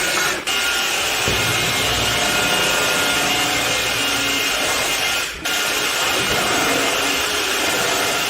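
Ticwell Whale W1 cordless wet-dry vacuum mop running, a steady motor whine over a hiss, dipping briefly twice, about half a second in and about five seconds in.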